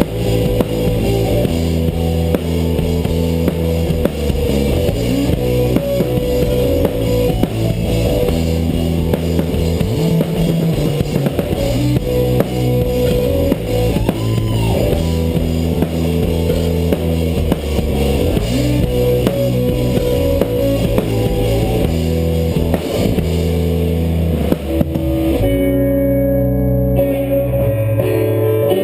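A rock band playing an instrumental passage on electric guitar, bass guitar and drum kit, recorded live. About 25 seconds in the drums drop out, leaving the guitars ringing on.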